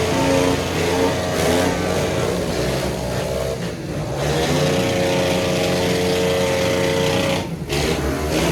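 Pit bike engine revving hard and held at high revs. The throttle is chopped briefly twice, about four seconds in and again near the end.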